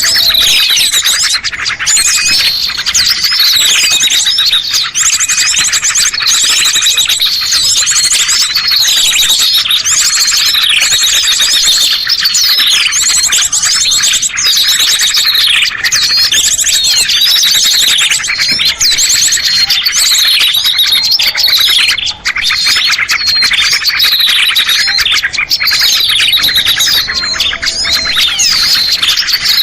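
A dense chorus of many small songbirds chirping and trilling at once: a steady, loud stream of short falling chirps and fast buzzy trills. It is a bird-luring (pikat) call recording, meant to draw small birds down.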